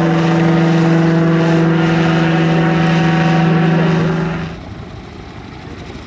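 Radio-controlled model plane's motor and propeller running at a steady, high pitch, then cutting away quickly about four seconds in, leaving a quieter rushing noise.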